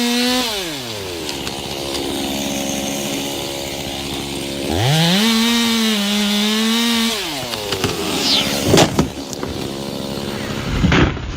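Chainsaw engine at full throttle, falling back toward idle within the first second, revving up again for about two seconds midway, then dropping. Several sharp knocks or cracks come near the end.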